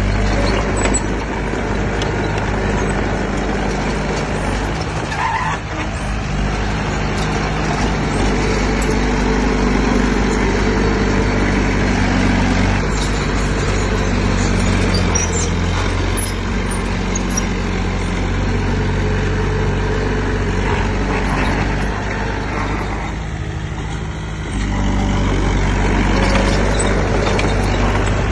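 Heavy diesel engine of earthmoving equipment running loud and steady. Its engine note shifts about twelve seconds in, eases off briefly near the end and then picks up again.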